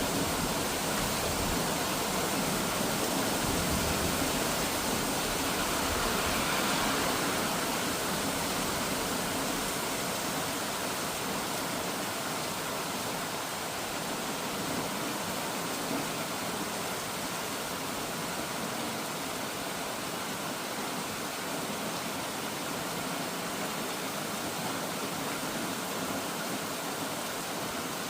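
Steady rushing of flowing water, like a stream or rapids, an even hiss across all pitches that eases slightly after the first several seconds.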